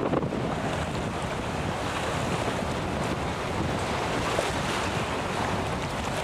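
Strong wind buffeting the microphone as a steady rumbling noise, with lake waves lapping.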